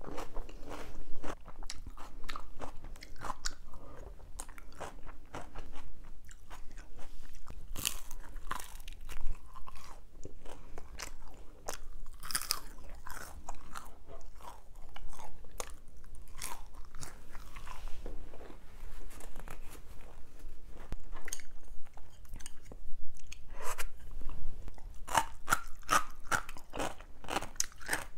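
A person chewing and biting food close to the microphone, mukbang-style: a steady run of small crunches and mouth clicks, thickening into a quick string of crisp crunches near the end.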